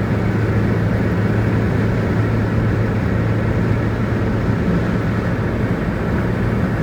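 A vehicle running steadily: a constant low engine hum with even noise over it.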